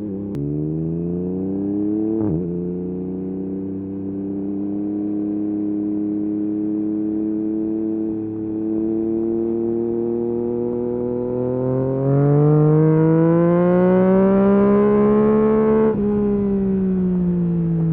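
Yamaha MT-09 SP's three-cylinder engine through a full Akrapovic race exhaust, accelerating through the gears: two quick upshifts near the start, then a long pull with the pitch slowly rising. In the last third it gets louder and revs harder, then the revs drop suddenly and the note falls away near the end.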